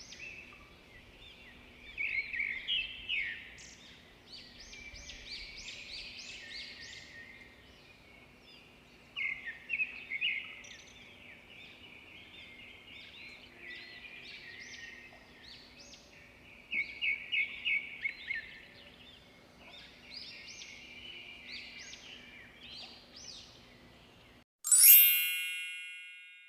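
Small birds chirping and trilling over a faint steady hum. Near the end the hum stops and a single bright chime rings out and fades.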